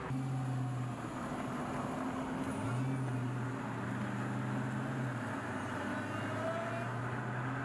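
Supercharged 6.2-liter V8 of a Dodge Charger SRT Hellcat Redeye cruising at low, steady revs, a steady low engine note that shifts slightly in pitch a couple of times.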